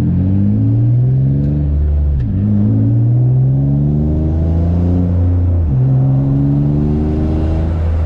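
Single-turbo Nissan G35's 3.5-litre V6 on low boost (6 psi) accelerating hard: the engine note climbs through a gear, drops at an upshift about two seconds in, climbs again, drops at a second upshift about five and a half seconds in, then rises once more and levels off near the end.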